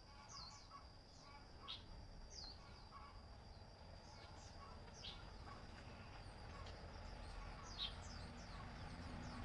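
Outdoor countryside ambience: birds calling with short, scattered chirps that slide down in pitch, over a steady high-pitched insect drone.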